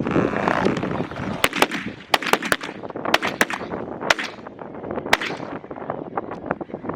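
A rapid volley of shotgun shots from several hunters firing at Canada geese, about ten sharp reports in quick succession over a few seconds, some close together and overlapping.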